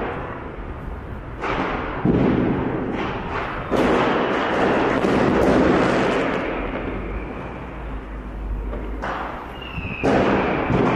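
New Year's Eve fireworks and firecrackers going off in a city street: several loud bangs, each echoing and fading over a couple of seconds, with scattered crackles between them.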